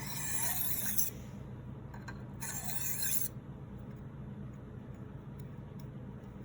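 Knife blade drawn across a sharpening stone in two scraping strokes, each about a second long, the second starting a little over two seconds in.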